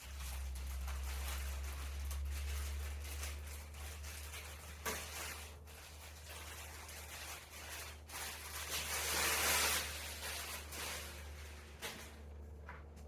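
Rustling and handling noises of parts and packaging, with a sharp click about five seconds in and another about eight seconds in, over a steady low hum. The rustling is loudest near the end.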